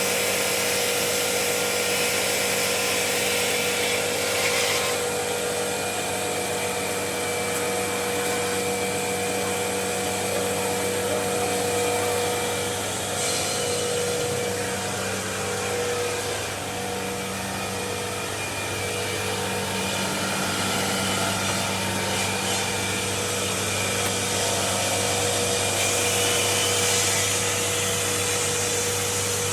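Marble-working machinery running steadily: a constant motor hum under a hissing, grinding noise that shifts slightly about five seconds in and again around thirteen seconds.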